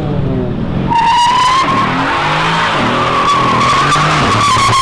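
Sports car accelerating hard with its tyres squealing: a steady high squeal starts about a second in and holds, over the engine note rising and dropping in steps as it shifts up.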